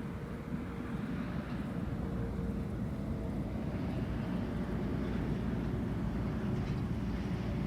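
Steady low rumble of a car driving, road and engine noise heard from inside the vehicle, with a faint steady hum.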